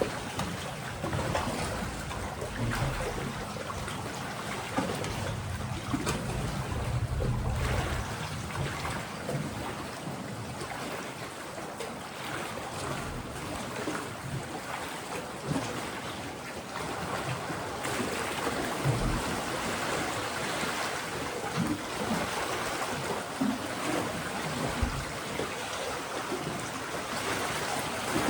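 Mediterranean sea waves washing against a rocky shore: a steady surf hiss that swells and eases, with a low rumble during the first several seconds.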